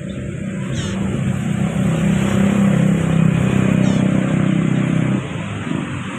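A motor vehicle's engine running steadily and growing louder, then dropping off suddenly about five seconds in. Brief high bird chirps come through twice, about a second in and about four seconds in.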